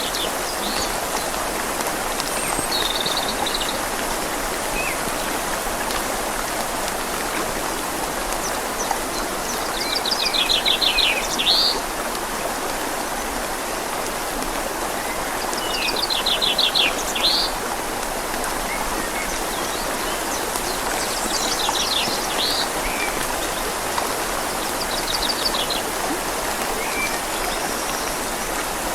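Steady rush of a flowing river mixed with rain falling on leaves. Over it a small songbird sings a short, high, rapid trilled phrase about every five to six seconds, five times.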